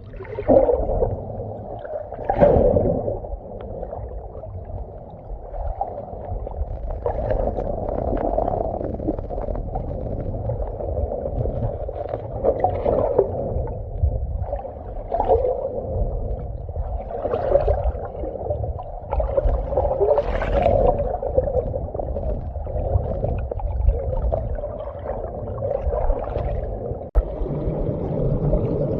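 Muffled gurgling of stream water, steady with irregular surges, as heard with the microphone underwater or close in the flow.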